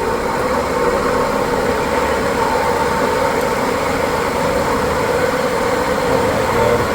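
Old, rust-covered exhaust fan running steadily at full speed, its motor humming under a rush of air; very loud. It is running in reverse.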